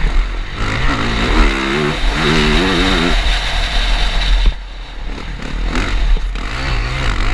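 Yamaha motocross bike's engine heard on board at racing speed, its revs rising and falling over and over as the throttle is worked through the turns, over a steady rush of wind and dirt. About four and a half seconds in, the engine drops away briefly, then picks up again.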